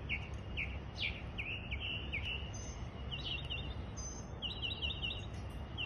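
Northern mockingbird singing: a run of short downward-sliding whistled notes, then quick bursts of rapidly repeated notes, part of a medley of phrases mimicking other birds.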